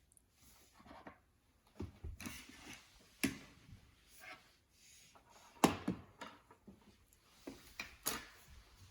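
Hands squishing and working slime: irregular sticky pops and clicks, with the sharpest pop about two thirds of the way through.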